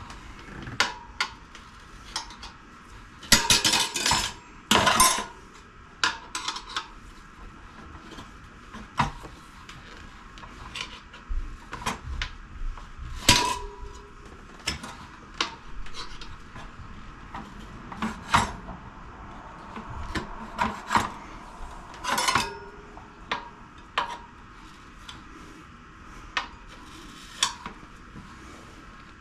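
A new front tyre being levered over a motorcycle wheel rim: tyre levers clinking and scraping against the rim as the last of the bead is worked on. There are scattered sharp clicks and knocks throughout, with longer scraping bursts about three to five seconds in.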